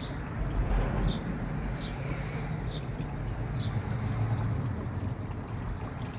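Water running and splashing steadily during a pet parrot's bath, with short high chirps about once a second.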